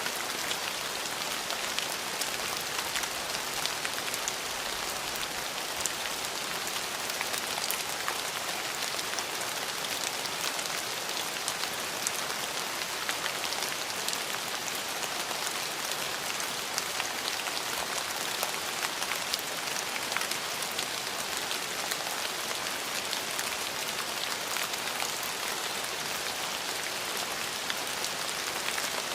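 Steady rain falling on surfaces, a constant hiss with many individual drops ticking through it.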